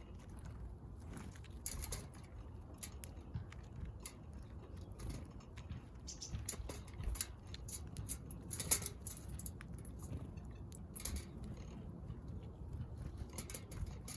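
Small backyard birds pecking at seed: a scatter of soft, irregular taps and clicks, one sharper tick a little after the middle, over a low rumble.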